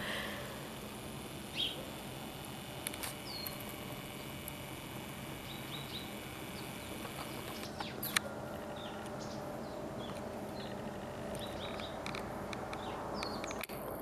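Quiet outdoor ambience with scattered short, high bird chirps and a light click about eight seconds in.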